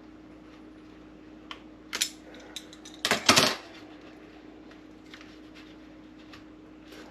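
Pliers and small metal parts clinking and clattering against the coffee machine in a few short knocks, the loudest cluster about three seconds in, over a steady faint hum.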